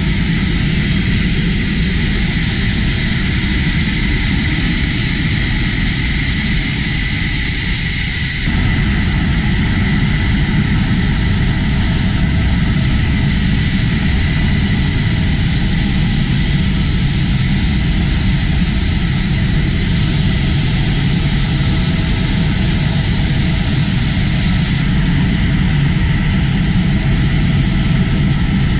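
F-16 fighter jet's turbofan engine running loud and steady: a dense roar with a high, steady whine on top. The sound shifts abruptly about eight seconds in and again near the end.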